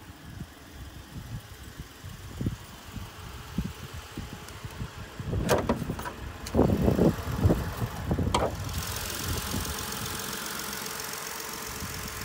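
Several clunks and rattles as a car's hood latch is released and the hood lifted, then the 2014 Ford Taurus engine idling steadily, heard plainly with the hood open from about nine seconds in, shortly after a cold start.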